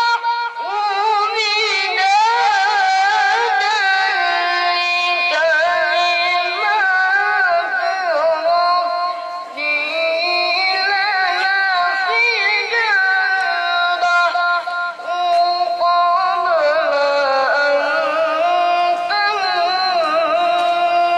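A child reciting the Quran in the melodic tilawah style, in a high voice: long held notes decorated with quick wavering runs and glides between pitches, with brief breaths between phrases.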